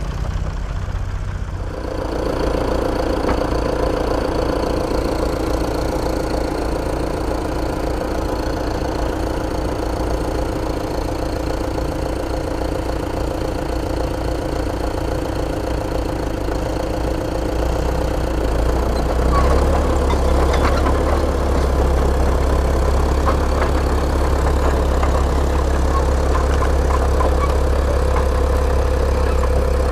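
An engine running steadily. About eighteen seconds in its sound deepens and grows a little louder.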